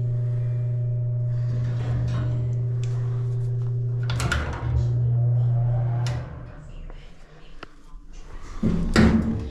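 A steady low mechanical hum that cuts off about six seconds in, with a loud clunk about four seconds in and another near the end, like drawers or doors being shut.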